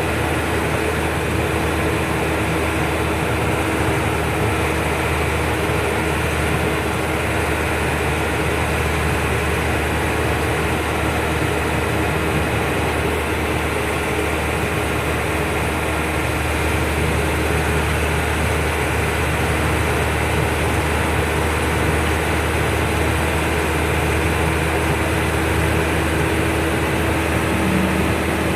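Truck engine and road noise running steadily on the move: a constant low drone with a steady hum above it.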